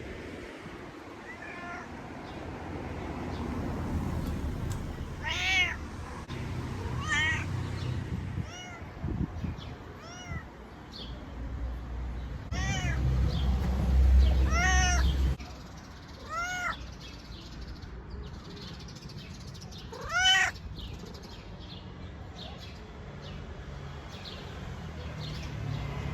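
A stray cat meowing over and over, each call a short rise and fall in pitch, with the loudest meow about two-thirds of the way through. A low rumble runs for a few seconds in the middle.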